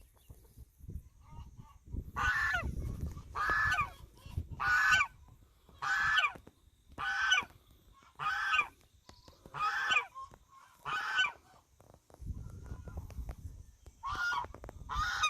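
A domestic goose gander honking repeatedly, about one loud honk a second, with a short pause near the end before the honks resume; it is a guard goose calling as it keeps watch over its hens.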